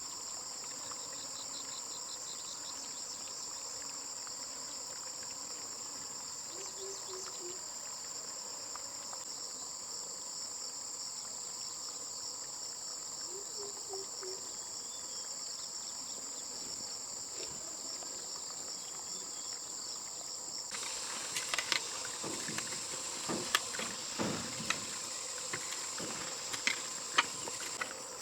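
Steady high-pitched chorus of insects trilling. About two-thirds of the way through, a run of sharp clicks and knocks begins over a louder hiss.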